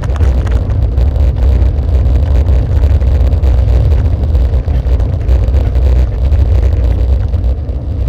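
Heavy, shaky low rumble with rattling as the vehicle travels over a bumpy, potholed road. The uploader puts the noise down to vibrating armrests or the DJI camera mount, though he is not sure which.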